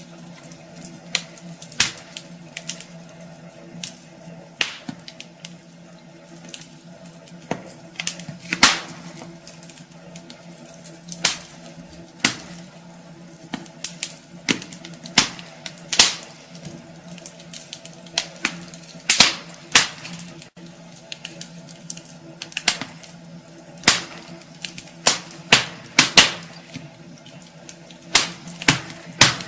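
Wood fire burning in a fireplace, the logs crackling and popping at irregular intervals, with a few louder snaps over a faint steady hum.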